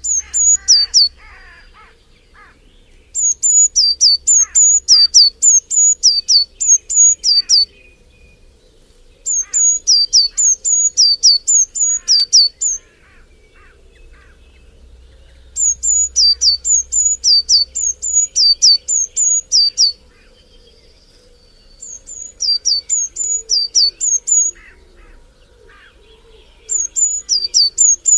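A bird repeating a loud, high-pitched two-note call many times over, in runs of a few seconds broken by pauses of about two seconds. Fainter calls of other birds sound underneath.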